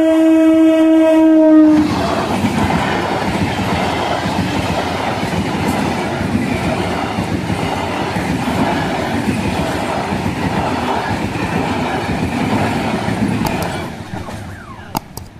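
A train horn blowing one long steady note that cuts off about two seconds in. A train then runs past with loud rumbling and wheel clatter, fading away near the end.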